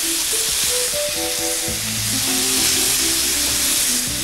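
Marinated chicken skewers sizzling in oil on a hot ridged grill pan, a steady hiss, with background music of held notes underneath.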